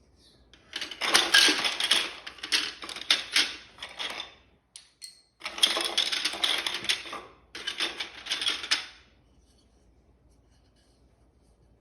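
Hands rummaging through a pile of loose plastic GraviTrax marble-run pieces, with dense clattering and clicking in three bursts, the first about three seconds long.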